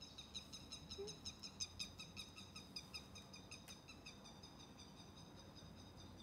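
A small bird's rapid, even chirping, high-pitched at about six chirps a second, fading after about three seconds, with a single sharp click a little past the middle.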